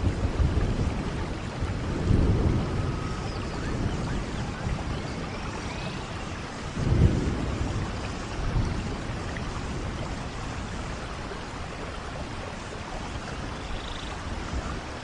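Steady rain falling, with low rolling rumbles of thunder that swell about two seconds in and again around seven seconds.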